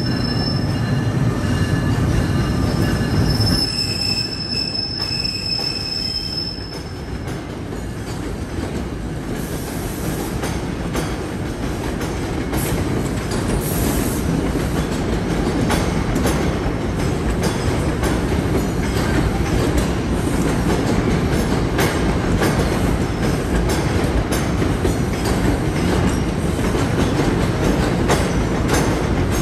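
Passenger train moving along the track. High steel-wheel squeal in the first several seconds gives way to a steady rumble, with rapid wheel clicks over the rail joints.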